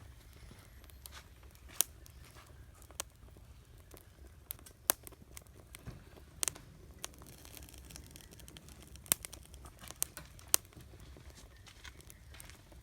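Wood campfire crackling: irregular sharp pops and snaps, a few much louder than the rest, over a low steady rumble.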